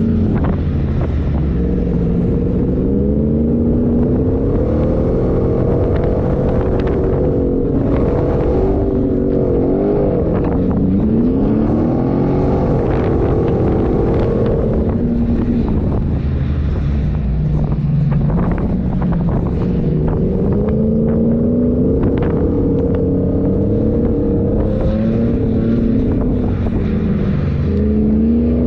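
A 4x4's engine driving off-road, revving up and down over and over so its pitch keeps rising and falling, with scattered knocks and rattles.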